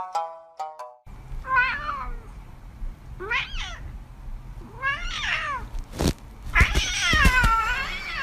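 A cat meowing: three short meows, then a sudden knock, then a long drawn-out meow near the end. The last notes of a plucked, music-box-like tune sound in the first second.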